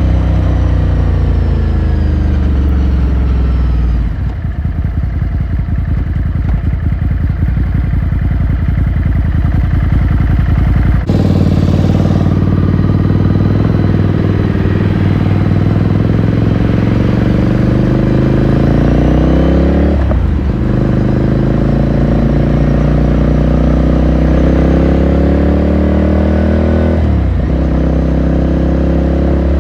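Ducati Scrambler Sixty2's air-cooled L-twin engine and exhaust heard from onboard. Revs fall as the bike slows, then the engine idles with a lumpy beat for about seven seconds. It then pulls away, revs rising through the gears with upshifts about twenty and twenty-seven seconds in.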